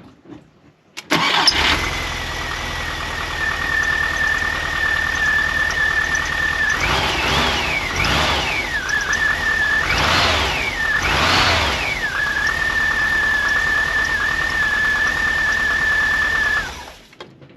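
VW Vanagon engine starting about a second in and settling into an idle with a thin steady high whine, then revved up and down four times in two pairs before returning to idle; the sound cuts off near the end. It is freshly tuned up with new plugs, wires, cap and rotor to cure misfiring and cutting out, and it runs evenly.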